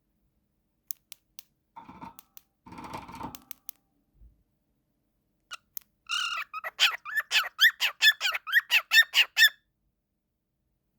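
A cockatiel calling: after a few faint clicks and rustles, a longer note is followed by a rapid run of about a dozen short, loud chirps, about five a second, which stop suddenly.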